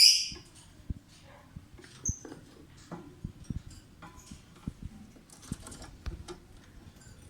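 A lovebird's short shrill call at the start, then scattered scratching, tapping and shuffling of the bird moving about, with one brief high chirp about two seconds in.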